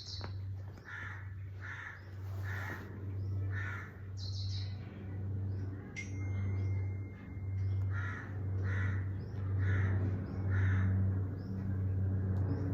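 Repeated calls from an animal or bird, short and evenly spaced about once a second, over a low steady hum that swells and fades.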